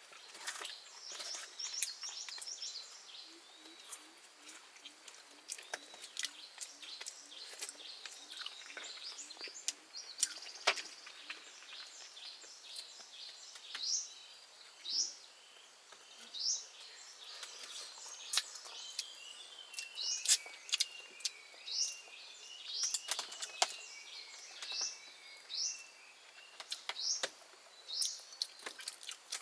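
Wild birds calling, mostly short rising chirps repeated about once a second in the second half, with a softer run of falling notes in the middle. A low note repeats about twice a second in the first third, and scattered sharp clicks and snaps run throughout.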